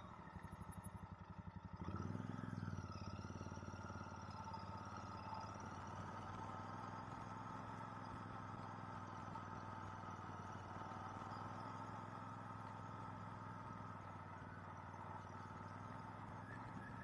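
Royal Enfield Interceptor 650's parallel-twin engine running at low road speed, its firing pulses plainly spaced at first, louder as the throttle opens about two seconds in, then settling into a steady drone.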